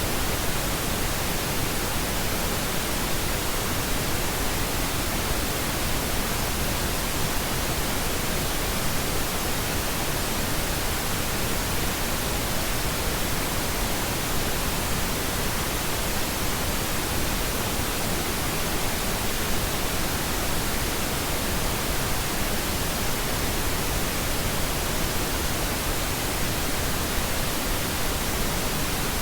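Steady pink noise: an even, unchanging hiss across the whole range, with no pattern or events.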